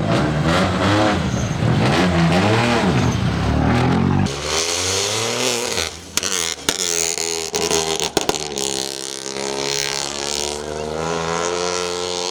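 Peugeot 208 Rally4's turbocharged three-cylinder engine accelerating hard from the stage start, its pitch climbing and dropping back through several quick upshifts. After about four seconds it settles into a steadier high note at speed, with a few sharp cracks near the middle.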